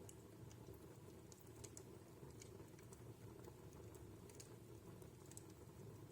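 Wood fire in a fireplace crackling faintly, with scattered small pops and snaps over a low steady rumble.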